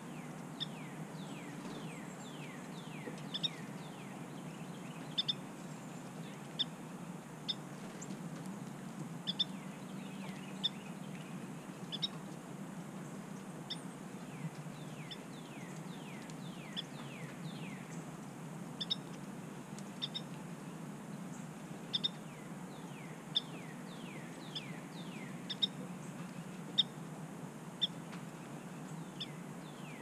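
Wild songbirds calling: many short sharp chip notes, and runs of quick whistles that slide downward, coming in bursts several times, over a steady low hum.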